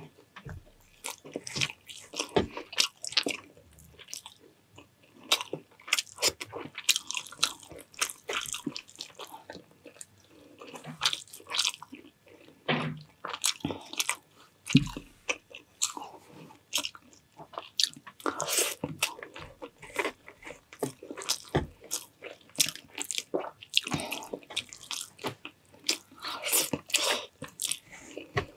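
Close-miked chewing and biting: a person eating homemade pork tocino with fried rice, with many short irregular mouth clicks and wet smacks.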